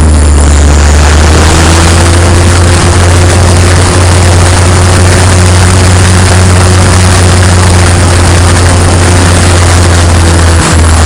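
Radio-controlled plane in flight, heard from its onboard camera: a loud, steady rushing of wind over an even low drone from the motor and propeller.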